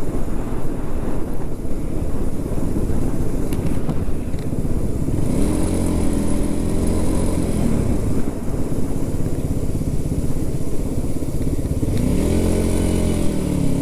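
Motorcycle engine running on the move with wind rushing over the microphone; the engine note rises and holds as the bike accelerates, about five seconds in and again near the end.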